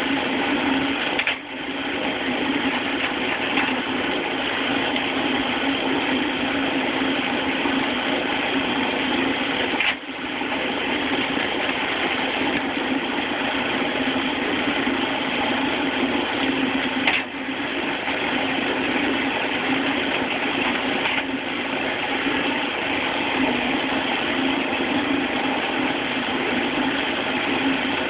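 Rack-and-pinion firewood splitter running steadily: its flywheel drive makes a constant mechanical hum. The hum breaks off briefly three or four times.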